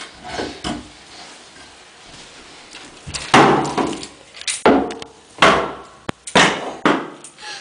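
Hammer blows on a wooden cabinet board during demolition: about five sharp strikes in the second half, after a quieter first few seconds.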